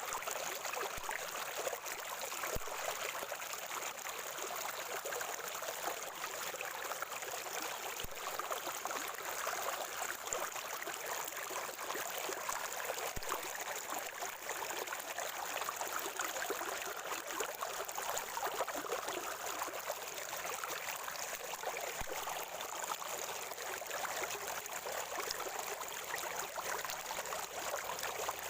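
Water of a natural spring gurgling and trickling steadily, with no break or change.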